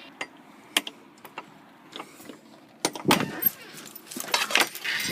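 A few sharp clicks and knocks, then from about three seconds in a denser run of clattering and rustling.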